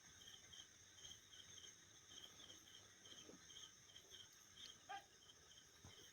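Near silence with a faint cricket chirping steadily, a short high chirp about twice a second, and a couple of faint knocks.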